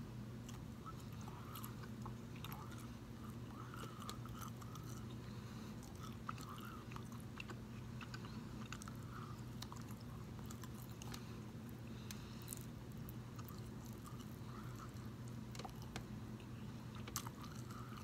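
A person chewing turkey bacon with many small, sharp mouth clicks, over a steady low hum.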